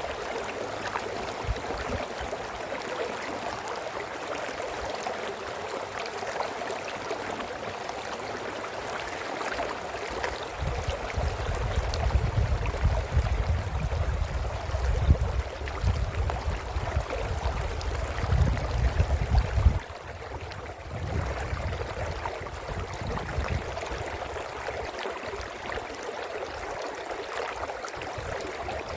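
Brook babbling and gurgling steadily over stones. About ten seconds in, a louder low rumble joins it for some ten seconds and cuts off suddenly.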